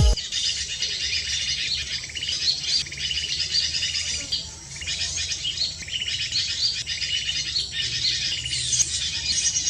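Small birds chirping: many short, high chirps in quick succession, continuing throughout.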